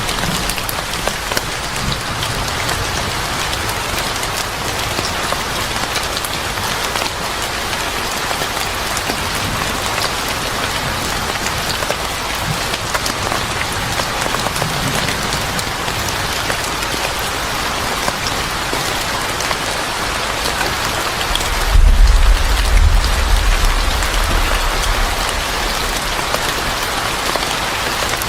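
Steady heavy rain pattering on a surface. Scattered faint ticks run through it, and a louder low rumble swells in about 22 seconds in and fades over a few seconds.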